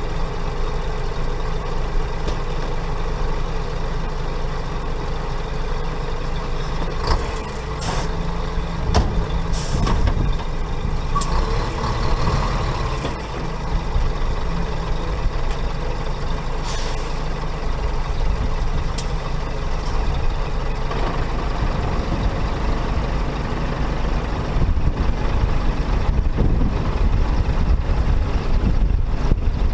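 Heavy diesel engine running steadily, with short sharp hisses of compressed air from truck air brakes, several of them about a third of the way in and one more a little past the middle.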